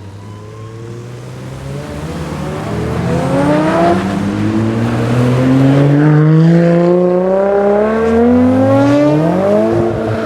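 A tuned car accelerating hard. The engine note climbs steadily in pitch and grows louder toward the middle, with a short break about four seconds in, as at a gear change.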